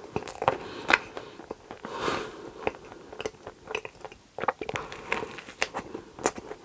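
Close-up mouth sounds of a person chewing a mouthful of cream-topped waffle: crisp crunches and wet, sticky clicks at an uneven pace.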